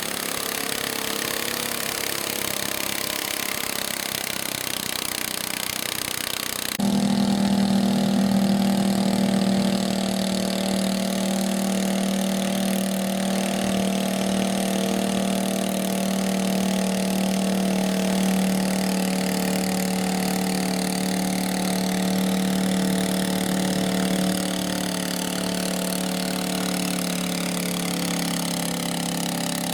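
Small garden-tractor engine running steadily. About a quarter of the way through, a louder, steady engine hum cuts in abruptly and keeps running at an even speed.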